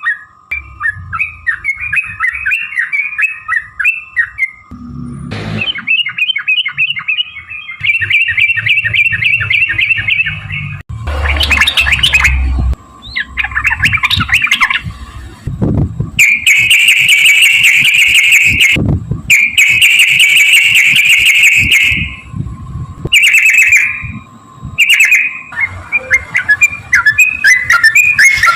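Yellow-vented bulbul (trucukan) singing loud bubbling, chattering phrases that run into long, rapid trilled strings of notes in the second half.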